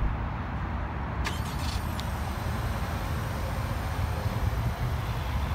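2020 Honda CR-V EX's 1.5-litre turbocharged four-cylinder engine being started from the key fob's remote start: a short sharp sound about a second in, then the engine running steadily at idle.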